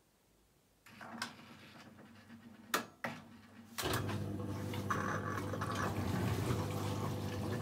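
AEG Lavamat 1400 washing machine starting its wash: a few sharp clicks, then about four seconds in water begins running in through the inlet, a steady rush of water with a low hum.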